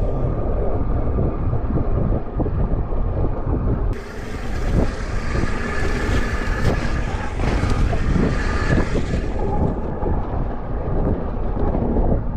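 Mountain bike riding down a rough, wet trail: wind buffeting the on-bike microphone with a steady rumble, and the bike knocking and rattling over the ground. About four seconds in, a loud hiss joins for some five seconds, then drops away.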